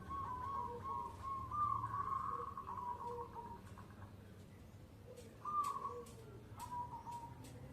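Zebra dove (perkutut) cooing: a quick run of short, falling notes, then a longer coo about two seconds in, another about five and a half seconds in, and a brief run of notes near the end.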